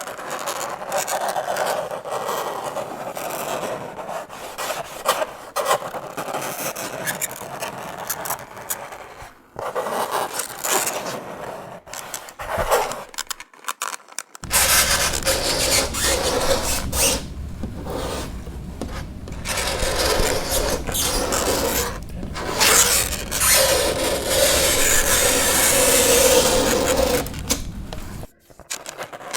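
Fingernails scraping across a chalkboard in repeated strokes, with a couple of short breaks. The scraping gets louder about halfway through, and a held squeal comes near the end.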